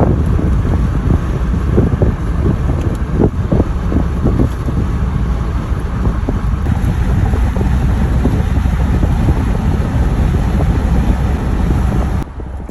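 Steady low rumble of a moving vehicle heard from inside, with wind noise on the microphone; it drops off suddenly near the end.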